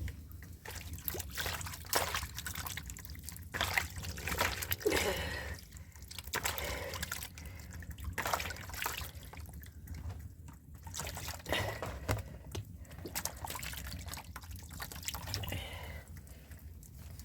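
Water dripping and splashing in irregular bursts, over a steady low rumble.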